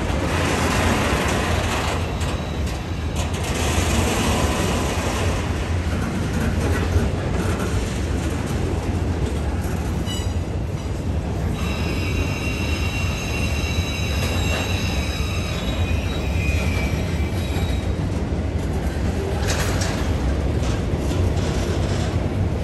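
CSX freight train rolling past at close range with a steady heavy rumble on the rails. For several seconds in the middle, wheels squeal in several high steady tones.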